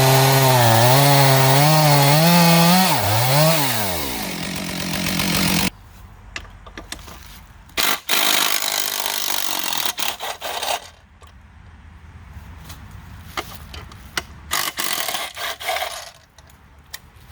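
Chainsaw running at full throttle in a milling cut, its engine pitch wavering under load. About three seconds in the throttle is released and the engine slows, then the sound cuts off abruptly near six seconds in, leaving scattered knocks and clatter.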